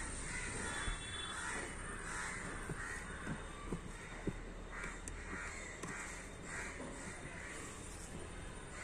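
Faint bird calls repeated several times in the background, about half a second to a second apart through the second half, over a low steady hum, with a few light clicks from handling.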